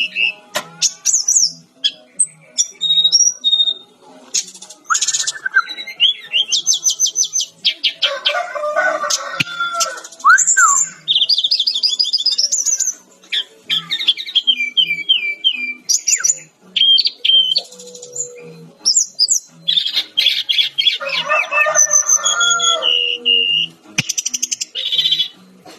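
Brown-chested jungle flycatcher in full song: a fast, varied run of chirps, trills and rising and falling whistles, with hardly a pause.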